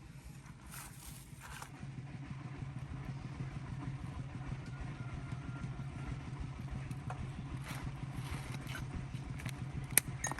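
An engine running steadily with a low, even hum, a little louder from about two seconds in, with scattered light taps and one sharp click near the end.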